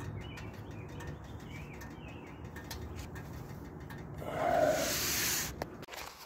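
Birds cooing and chirping in the background over a low steady hum. About four seconds in comes a loud rushing scrape lasting over a second, and the sound changes abruptly near the end.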